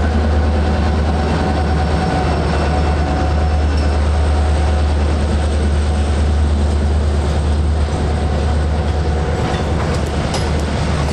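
Norfolk Southern freight train rolling past at close range: a diesel locomotive going by, then boxcars, their steel wheels running on the rails under a steady heavy low rumble.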